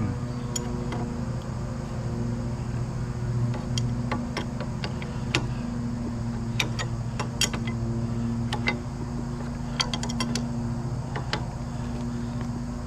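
A steady low mechanical hum runs throughout, with scattered sharp metallic clicks and taps of tools on winch parts, a few coming in quick clusters.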